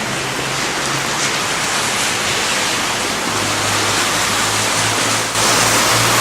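Steady rain, an even hiss that abruptly gets louder about five seconds in.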